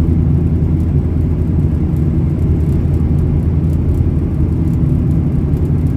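Steady low drone of a semi-truck's engine and road noise, heard inside the cab while driving.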